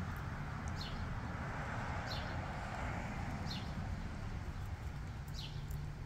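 Quiet outdoor background with a low steady rumble, and a faint, short, high bird call repeating about every second and a half.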